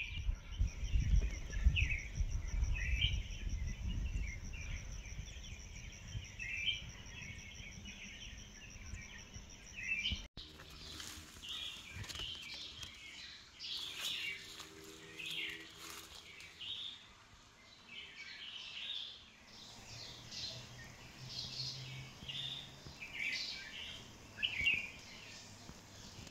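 Small birds chirping and calling repeatedly, with a steady high-pitched whine for about the first ten seconds and wind rumbling on the microphone early on. An abrupt cut about ten seconds in, after which the birds continue calling.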